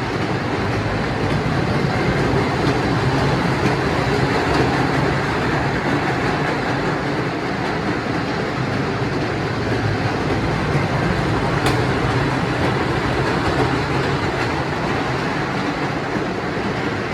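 Mini amusement-park train ride running along its track: a steady rumble and rattle of the wheels, with one sharp click a little over halfway through.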